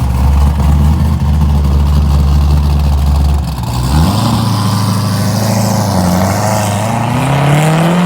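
A car engine running low and steady, a short rise in revs about four seconds in, then the revs climbing steadily near the end as the car accelerates.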